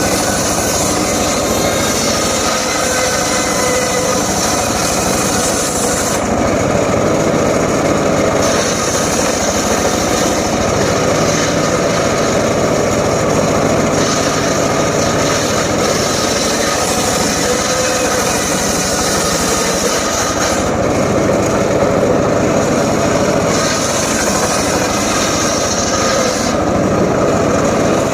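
Homemade circular saw rig running steadily while its blade cuts teak. The high-pitched cutting noise drops away briefly about every six to eight seconds, between passes through the wood.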